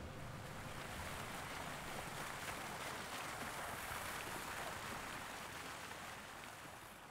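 A steady rushing wash of ambient noise with no distinct events, fading away near the end.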